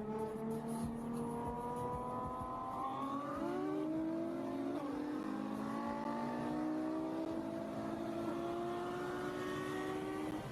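A car engine accelerating, its pitch climbing steadily. About halfway through the pitch drops as it shifts gear, then rises again.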